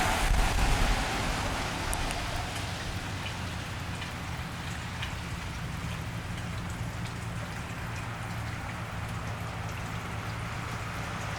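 Steady rain falling on a wet street, with scattered drips ticking. A louder wash of noise, fitting a car's tyres on wet pavement, dies away in the first second.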